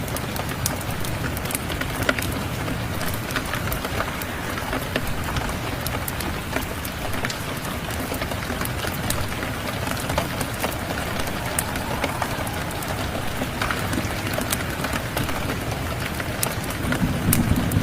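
Steady rain mixed with a crackling wood fire: an even hiss of rain with many sharp pops and crackles scattered through it. A low rumble swells up near the end.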